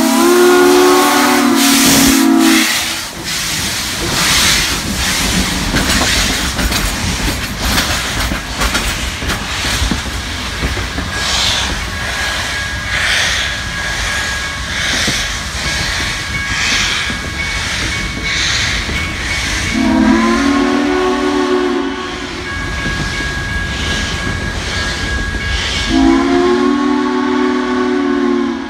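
A passing train sounds its multi-note chime three times: a long blast at the start, then two more near the end. Between the blasts comes the steady rumble and rhythmic beat of the moving train.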